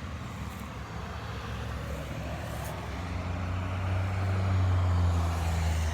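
A low, steady motor hum that grows louder from about halfway through, over faint outdoor background noise.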